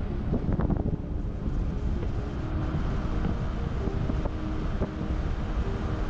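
Wind buffeting the microphone over a steady low rumble, with faint held musical tones that shift pitch every second or so.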